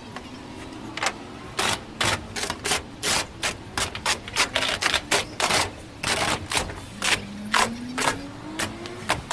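Repeated sharp knocks or taps in an uneven rhythm, roughly two to three a second.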